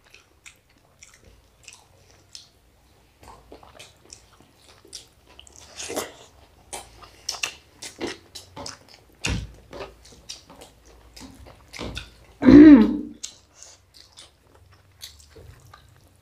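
Close-miked chewing of people eating rice and curries by hand: a string of small, irregular wet mouth clicks. A sharper thump comes about nine seconds in, and a short voice-like sound, the loudest moment, about twelve and a half seconds in.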